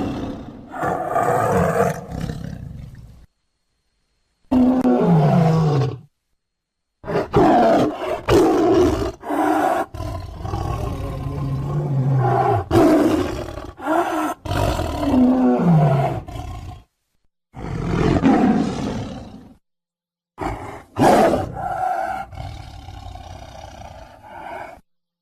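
Tiger roaring and growling: a string of separate loud roars, some dropping in pitch at the end, broken by short gaps of dead silence.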